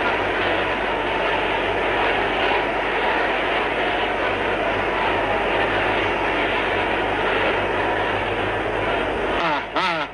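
A large congregation praying aloud all at once, a dense steady roar of many voices, which stops suddenly about nine seconds in; a man's voice begins speaking just after.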